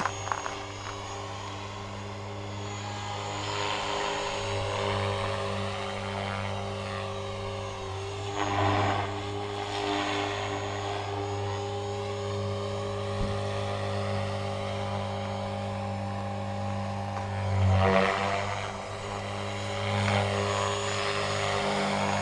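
T-Rex 500 radio-controlled helicopter hovering inverted: the steady drone of its spinning rotor blades and motor, swelling louder a few times as it moves about.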